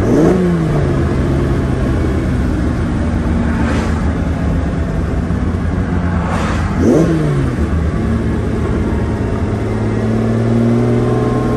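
The 4.4-litre V12 of a 1972 Ferrari 365 GTC/4, heard from inside the cabin, running at low revs as the car slows. The engine gives two quick throttle blips, one right at the start and a sharper one about seven seconds in, each falling back to a steady run. The revs rise gently near the end.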